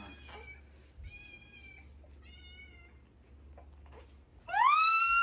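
A cat meowing: two faint meows, then a loud meow near the end that rises in pitch, holds, and cuts off abruptly.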